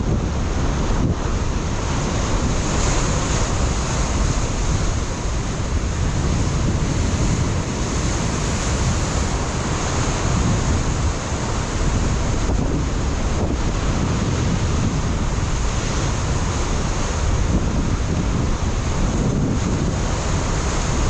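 Ocean surf breaking and washing against a rocky shoreline, a steady rushing noise, with wind buffeting the microphone and adding a low rumble.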